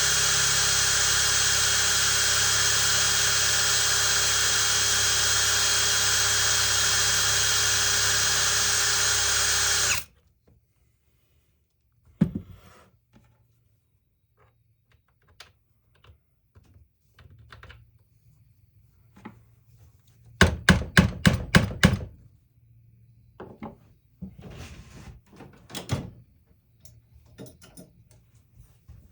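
Electric drill running steadily, drilling out a stuck screw. It cuts off suddenly about a third of the way in, followed by scattered clicks and knocks, with a quick rattle of sharp clicks about two thirds through.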